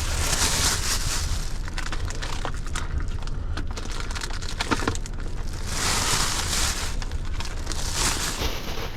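Crinkling and rustling handling noise in two longer stretches with scattered small clicks, over a steady low rumble.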